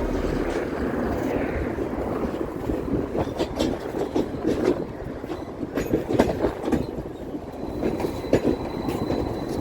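KTM-23 (71-623-04.01) tram running along the track: a steady rumble of the wheels on the rails, broken by irregular knocks as the wheels cross rail joints. A faint high, steady whine comes in near the end.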